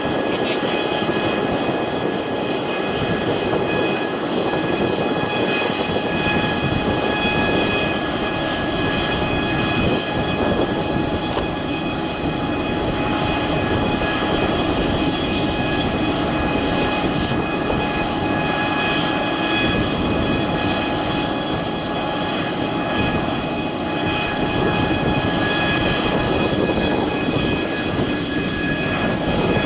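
Airbus A400M's turbines running with a steady high whine made of several pitches over a broad rushing roar.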